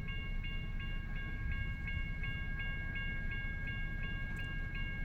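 Railroad crossing bell ringing at an even pace of about three strokes a second over the steady low rumble of a BNSF freight train's cars rolling past.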